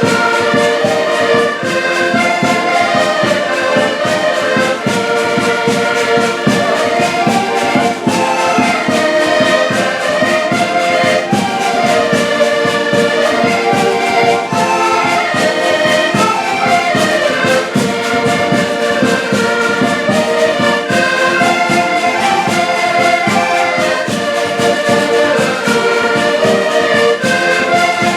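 Live band music led by brass, trumpet- and trombone-like melody lines over a steady beat.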